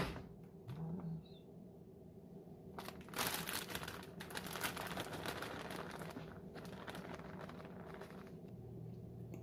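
Faint crinkling and rustling of plastic food packaging being handled, with a few light clicks, strongest in the middle stretch.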